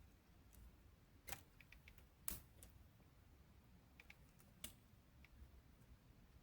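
Near silence broken by a few scattered sharp clicks and snaps, the loudest a little over two seconds in, with a short cluster of faint ticks just before it.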